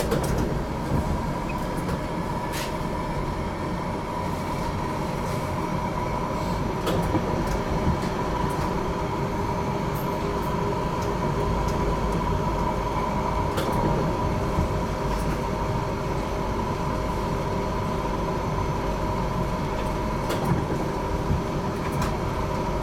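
GTL8 articulated tram running along the track, a steady low rumble with a constant whine from its traction equipment and scattered clicks and knocks from the wheels and rails.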